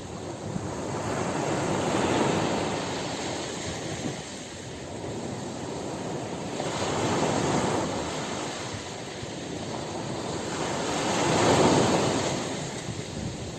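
Ocean surf breaking on a beach: three rushing swells of wave noise that rise and fade about every four to five seconds, the last the loudest.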